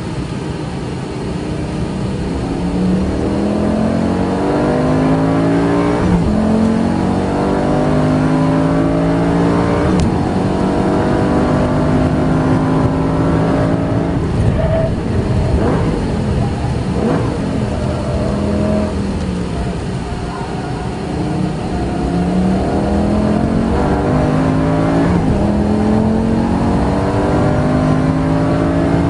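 Car engine heard from inside the cabin at full throttle, its pitch climbing and then dropping back at each upshift as it runs up through the gears. About two-thirds of the way through it goes quieter as the car slows for a corner, then it revs up through the gears again.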